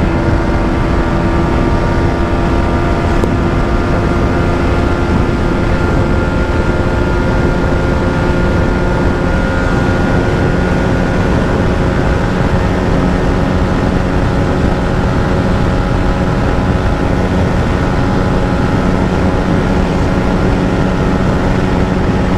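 Yamaha MT-15's 155 cc single-cylinder engine pulling hard in fifth gear at high revs at close to top speed, its note holding nearly steady, with wind rushing over the microphone.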